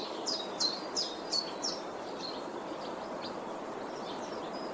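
Small birds chirping: a quick run of short, high, down-slurred chirps, about three a second, for the first two seconds, then fainter scattered chirps. Under them is a steady outdoor hiss.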